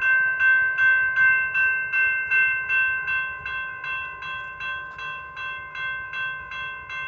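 Railroad grade crossing warning bell ringing in a steady rhythm of about three strokes a second as the crossing gates lower, signalling an approaching train.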